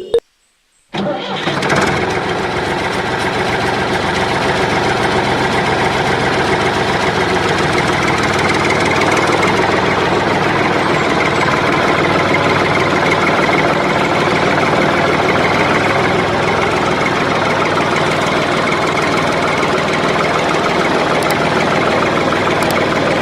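A small electric gear motor starts about a second in and runs steadily with a busy whirring hum.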